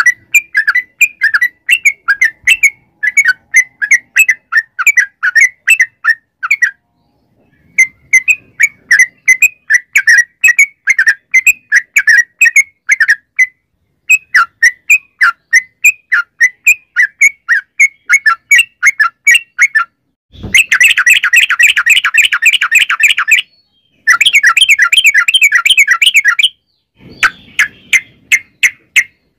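Yellow-vented bulbul (trucukan) singing long runs of quick, repeated notes, about five a second, broken by short pauses. About two-thirds of the way in, the song turns into a much denser, faster trill.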